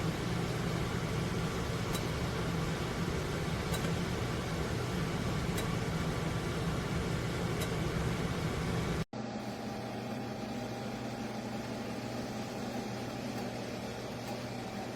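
Emeril Lagasse French Door air fryer toaster oven running, its fan giving a steady hum and whoosh. The sound drops out for an instant about nine seconds in and comes back with less low rumble.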